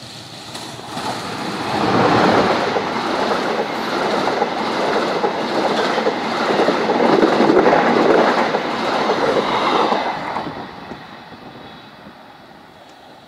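Diesel-hauled passenger train passing close by: the running noise and wheel clatter over the rail joints build up over a second or two, stay loud for about eight seconds as the coaches go by, then fade as the train recedes.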